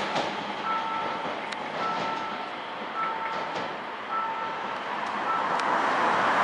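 An approaching electric multiple-unit commuter train running along the track, its noise growing louder near the end, with a few sharp clicks. Over it a pedestrian-crossing warning buzzer sounds a repeating two-tone beep about once a second, the signal that a train is approaching.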